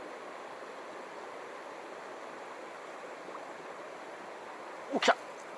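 Steady rushing of a mountain stream's current. Near the end there is one brief, sharp, louder sound.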